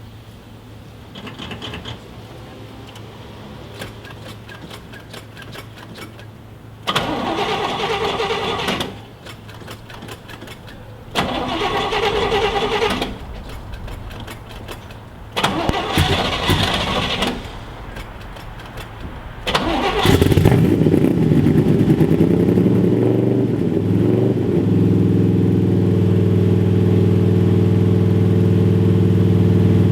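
1970 Corvette's L46 350 small-block V8, breathing through Hooker sidepipes, cold-started after a month of sitting. The starter cranks in three separate bursts of about two seconds each. On the fourth try, about twenty seconds in, the engine catches, revs unevenly for a few seconds, then settles into a steady idle.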